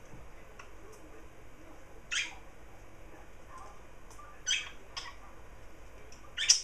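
Garden birds calling: four short calls a second or two apart, the last one near the end the loudest.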